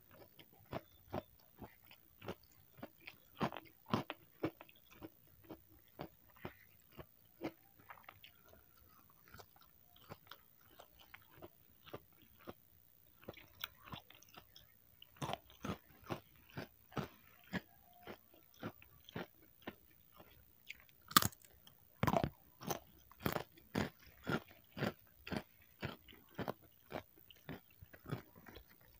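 Close-miked chewing of a mouthful of rice with sambal goreng pete and crunchy raw vegetables, eaten by hand: wet mouth clicks and crunches about twice a second, quieter for a spell in the middle, with one loud sharp crunch about two-thirds through.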